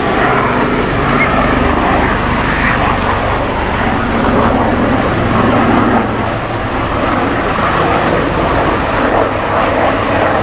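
Avro Lancaster's four Merlin piston engines droning steadily in flight.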